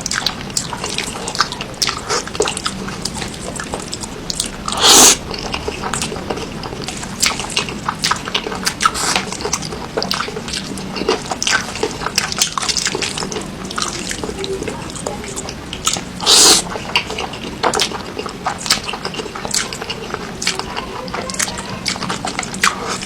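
Close-miked wet eating sounds: a quick run of smacking, chewing clicks, with two louder, longer noisy bursts about five and sixteen seconds in.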